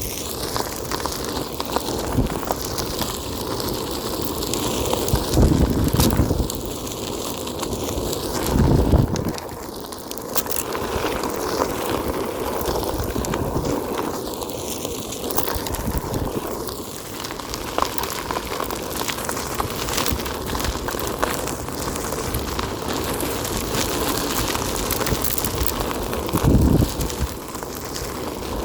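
Onewheel electric board's tyre rolling over a forest dirt trail: a steady rough crunching rumble, with louder low rumbles from bumps about 6, 9 and 27 seconds in.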